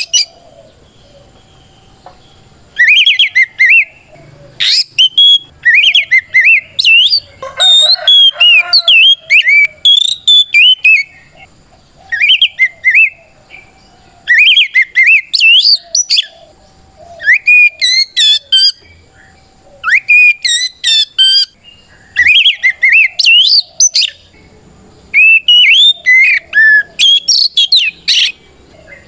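Oriental magpie-robin (kacer) singing a loud, full challenge song: repeated phrases of clear whistled notes that sweep quickly up and down, with short pauses between phrases and a harsher chattering burst about eight seconds in. It is the song a male uses to call out a rival.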